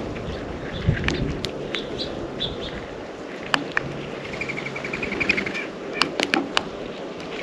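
Small songbirds at a feeder: a few short high chirps and a quick trill of about a dozen evenly spaced notes in the middle, among sharp taps and clicks from birds on the feeder.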